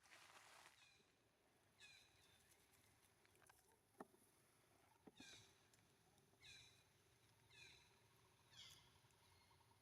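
Faint, short, high-pitched calls that fall in pitch, repeated about once a second in the second half, typical of a baby monkey calling. A single sharp click about four seconds in.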